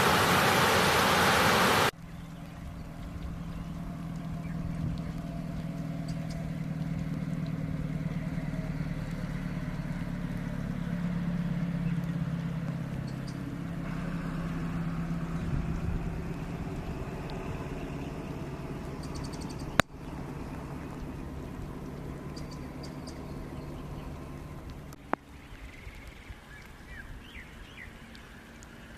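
Steady rushing-water hiss that cuts off abruptly about two seconds in, giving way to quieter outdoor ambience. A low vehicle engine hum swells and fades through the middle. Short bird chirps come now and then, and two sharp clicks come later on.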